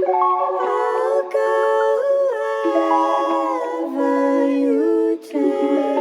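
Wordless layered vocal harmonies sung without instruments, several voices holding chords and sliding together between notes, with a short break about five seconds in.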